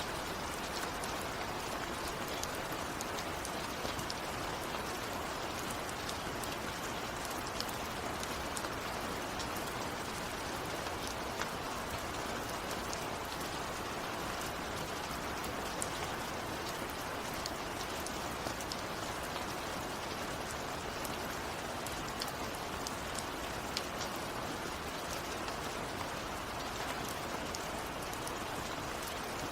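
Steady rain falling, a constant hiss with many individual drops ticking sharply on a hard surface. No thunder is heard.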